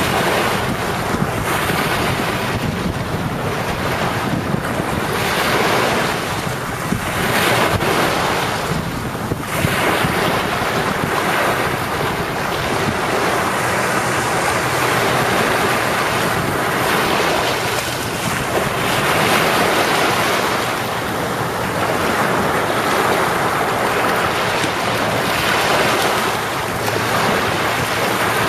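Sea waves breaking and washing up the beach, a continuous rushing surf that swells and eases every few seconds, with wind buffeting the microphone.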